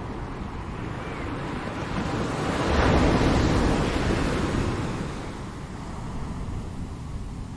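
Ocean surf: a wave swells to a peak about three seconds in, then washes back down over a steady rush of water.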